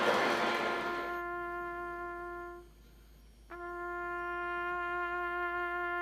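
Solo trumpet playing slow, long held notes with a short pause between them. A toy train's mechanical running noise fades out in the first second.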